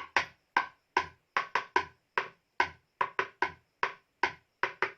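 A pestle pounding rice in a small mortar (alho and lusong): about sixteen sharp knocks at an uneven beat, some in quick pairs and threes.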